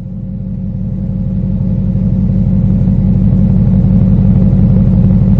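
Car engine and road noise heard from inside the cabin while driving: a steady low rumble that grows gradually louder as the car picks up.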